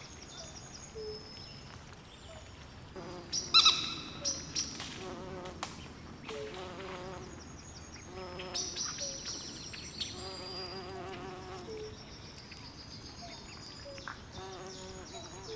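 Night swamp chorus of frogs and insects: overlapping short high chirps and repeated low trilled calls, with a loud harsh call about three and a half seconds in, over a faint steady hiss.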